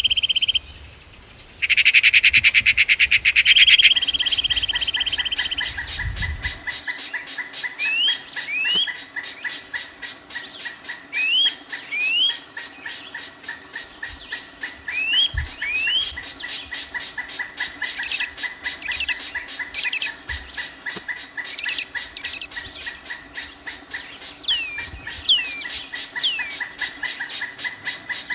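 Birds calling: short rising chirps, often in pairs, repeated every few seconds over a steady, fast, even pulsing. A loud buzzy trill fills the first few seconds, with a brief break.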